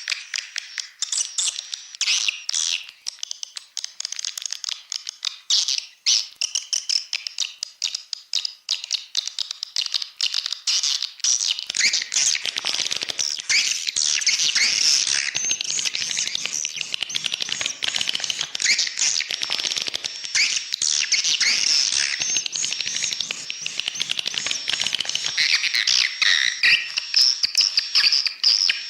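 Swiftlet lure recording: a dense, unbroken chatter of many swiftlets twittering in high, rapid chirps, the call played in swiftlet farming houses to draw the birds in to roost and nest. About twelve seconds in the sound grows fuller and denser.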